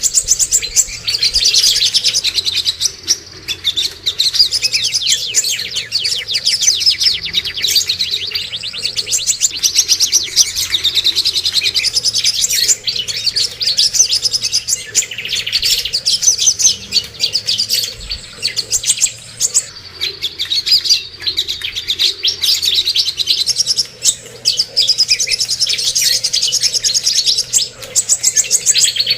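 Cucak kombo (greater green leafbird) and another songbird singing without pause in fast, high chirps and trills. This is a masteran recording, played to caged songbirds to get them singing.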